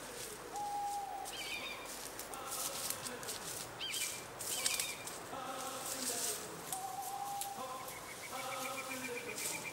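Woodland ambience of several birds calling: short whistled notes and chirps at different pitches, overlapping, with faint scattered ticks.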